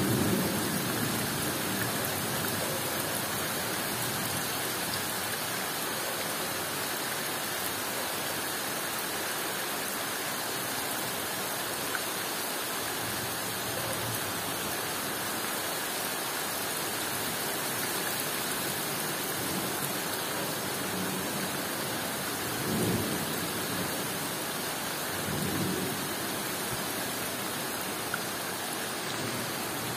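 Heavy tropical downpour: rain pouring steadily onto jungle foliage and a wet road, an even hiss that never lets up, with two brief low rumbles in the last third.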